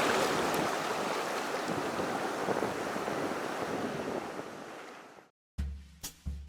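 Rushing ocean surf, steady and then fading out over about five seconds. After a brief silence near the end, drum beats start.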